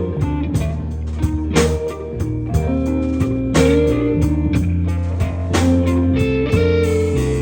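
Band playing an instrumental passage of a slow blues-country song: guitar over bass and a drum kit keeping a slow, steady beat.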